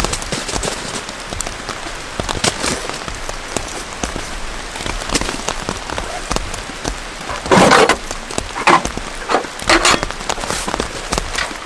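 Heavy rain falling steadily on surfaces, with scattered sharp drips and a few louder knocks or clatters in the second half, the loudest about seven and a half seconds in.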